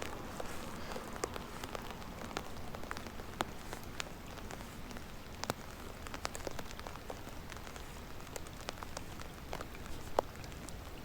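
Rain falling, a steady hiss with scattered sharp ticks of individual drops hitting close by.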